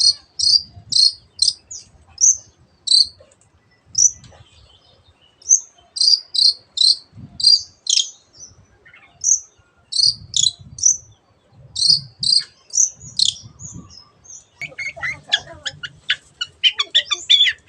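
Long-tailed shrike (cendet) singing: short, sharp high notes fired off in quick groups, then from about fourteen seconds in a dense, fast chattering run. Its song is filled with mimicked calls of other birds, such as a canary.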